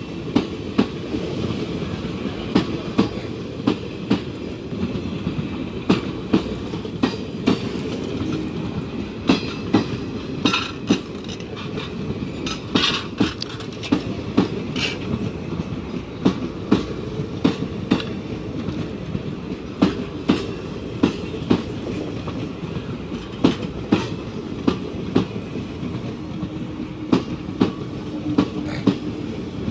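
Indian Railways ICF passenger coaches rolling past close by. The wheels clatter over the rail joints in repeated sharp clicks, often in pairs, over a steady rumble.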